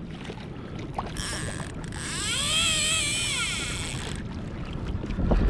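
Fishing reel drag whining as a hooked fish pulls line. The whine rises and falls once over about two seconds, over a low wash of water against the kayak.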